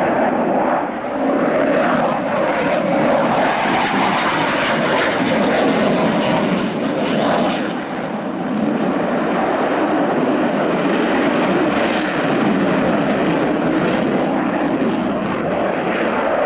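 A fixed-wing aircraft's engine, loud and steady as it flies a display, with slight dips in level about a second in and around halfway.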